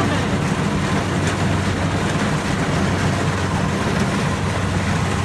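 Rice combine harvester running steadily, its engine and harvesting machinery making an even, unbroken low drone.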